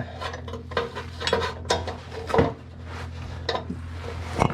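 Irregular metallic clinks, taps and scrapes of hand tools working on exhaust hardware under a car, with a sharper clank about two and a half seconds in and another near the end.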